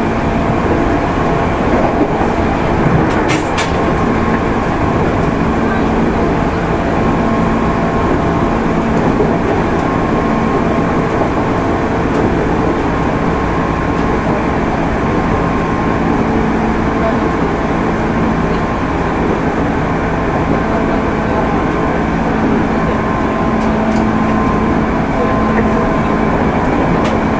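Steady running noise inside a JR 205 series (600 subseries) electric commuter train between stations: wheels on rail and traction-motor hum, with faint clicks about three seconds in.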